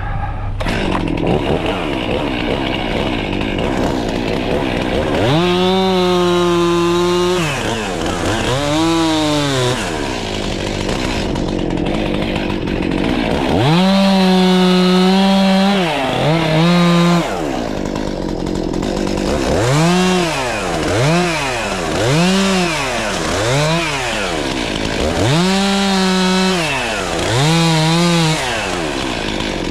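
Two-stroke chainsaw idling, then revving up to full speed about ten times. A few bursts are held for one to three seconds while it cuts up felled tree limbs, and the others are short blips of the throttle.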